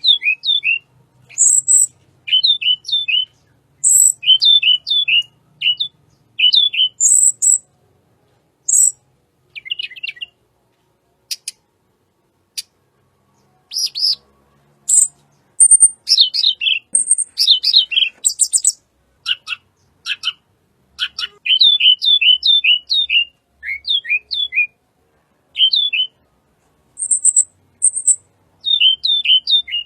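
Tledekan gunung (sulingan gunung) songbird singing: repeated phrases of three or four quick, high notes, each sliding downward, mixed with thinner, higher whistles. The song thins out briefly about a third of the way through, then comes back in a dense run.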